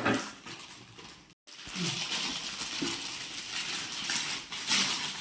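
Light clattering and rustling as plastic mixer-grinder jars and parts are handled, with a brief total break in the sound about a second and a half in.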